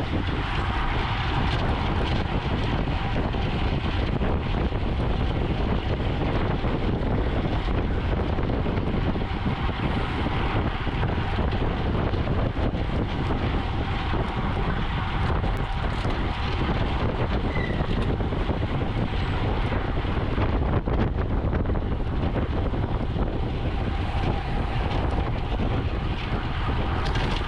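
Steady wind noise rushing over the microphone of a camera riding on a racing bicycle, heaviest in a deep, unbroken rumble.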